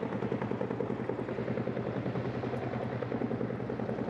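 Military rotorcraft rotors beating in a steady, rapid chop over a constant engine hum.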